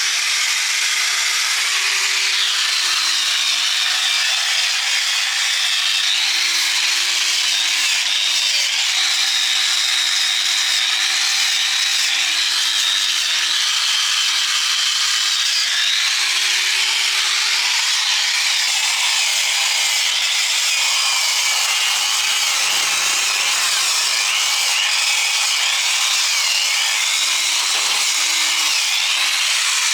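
Handheld power tool abrading metal, running continuously with a high hiss. Its motor pitch sags and recovers as it is pressed into the work.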